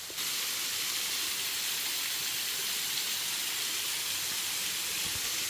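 Waterfall: a steady rush of falling water, an even hiss strongest in the high end, which grows louder just after the start and then holds level.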